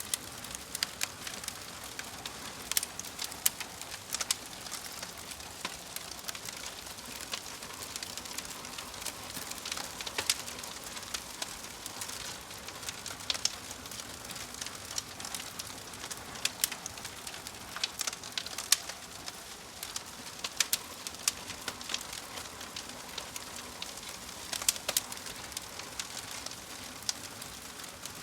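Wood fire crackling steadily, with frequent sharp pops and snaps over a soft hiss.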